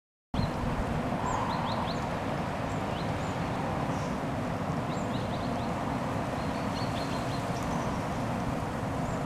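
Small songbirds giving short, high, falling chirps, scattered through the clip, over a steady low rumble that is louder than the birds.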